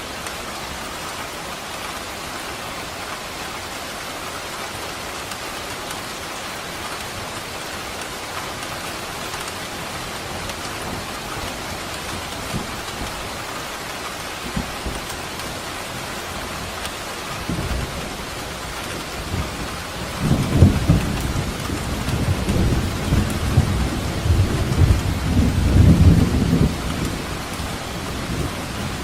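Steady rain falling, with a long roll of thunder rumbling low in the second half and ending shortly before the close.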